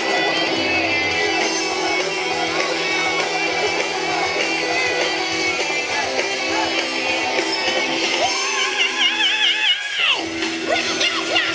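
Heavy metal band playing live, with a high wavering lead line coming in about eight seconds in.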